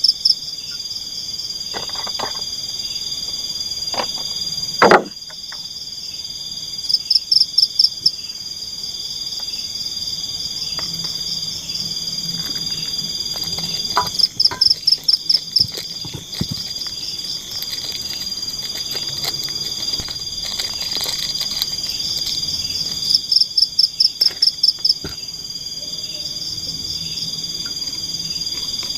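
Forest insects calling: a steady high-pitched whine, with a short run of rapid pulsing calls every several seconds. A few sharp knocks cut through it, the loudest about five seconds in.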